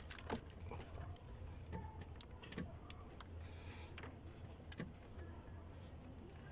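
Faint scattered clicks and taps of hands handling hose fittings, as the brake vacuum pump's port is being plugged. A steady low hum runs underneath.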